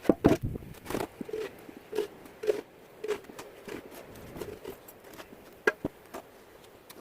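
Footsteps in deep snow, about two steps a second, irregular, with a sharper knock a little before six seconds in.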